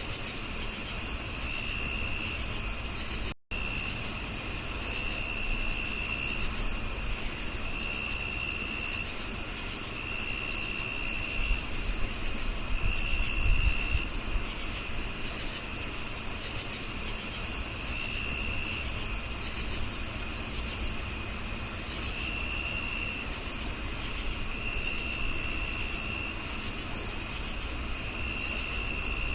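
Several crickets singing at once. One chirps evenly about twice a second over a continuous high trill, while a lower trill comes in bursts of about a second every couple of seconds. The sound cuts out for an instant about three seconds in.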